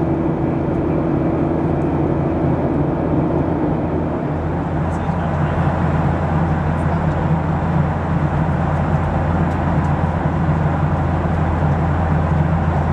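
Steady in-flight cabin noise of a Boeing 737-700 with CFM56-7B engines: a constant rush of air with low engine hums. The hum's pitch shifts: a higher hum fades out about three seconds in, and a lower hum grows stronger from midway.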